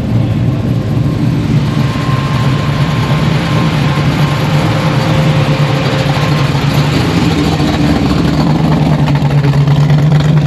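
A car's engine running at low revs with a steady low rumble, growing louder over the last couple of seconds.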